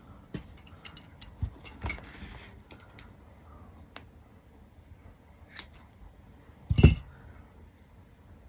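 Small sharp clicks and taps from craft tools and materials being handled on a work table, several in quick succession at first, then one louder knock near the end.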